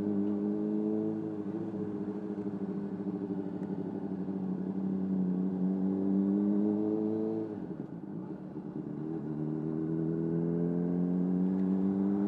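Honda CBR600RR inline-four engine pulling with the revs slowly climbing, heard from a microphone inside the rider's helmet. About seven and a half seconds in the engine note drops away as the throttle is rolled off. It picks up again a second or so later and climbs steadily.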